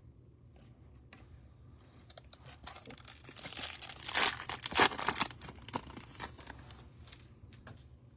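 A trading card pack's foil wrapper being torn open and crinkled. The rip is loudest about four to five seconds in, with softer rustling and a few small clicks around it.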